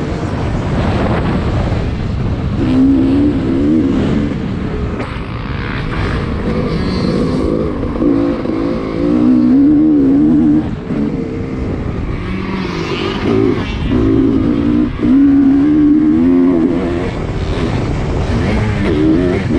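Dirt bike engine revving up and down again and again, its pitch rising and falling with throttle and gear changes, as the bike is ridden around a motocross track.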